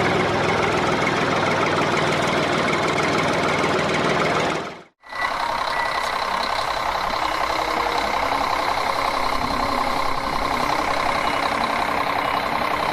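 A running engine, steady, that cuts out abruptly about five seconds in and comes back at once with a smoother, steadier tone.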